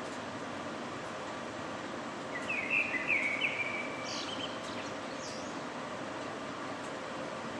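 A bird calling: a quick run of chirps about two and a half seconds in, then two fainter higher calls a second or two later, over a steady city background hum.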